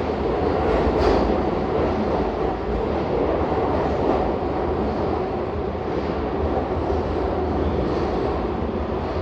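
Keihan electric train running, a steady rumble of wheels on rails with a few faint clicks about a second in.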